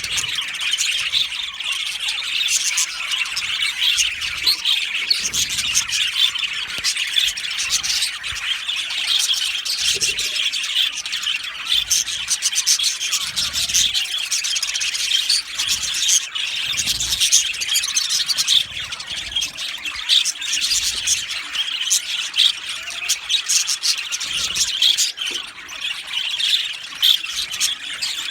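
Many budgerigars in an aviary flock chirping at once: a dense, unbroken chatter of overlapping high calls.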